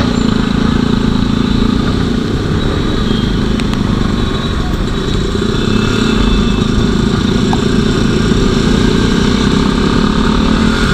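Motorcycle running steadily at road speed while riding, a continuous low drone with no sharp changes.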